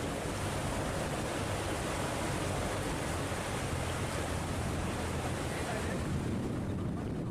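Fast-flowing water rushing steadily, with wind buffeting the microphone and a low steady drone underneath.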